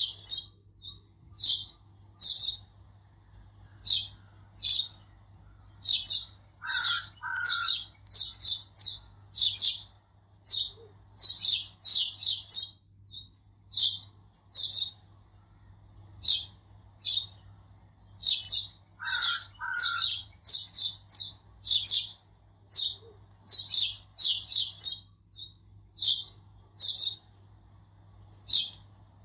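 Small birds chirping: short high chirps come in quick clusters throughout, and a lower two-part call sounds twice, about 7 and 19 seconds in.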